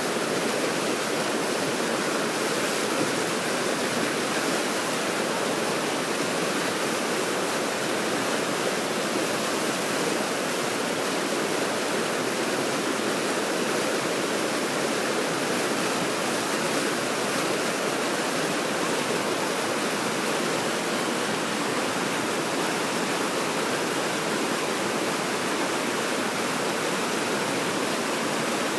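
Water rushing steadily over a river weir, an even unbroken roar.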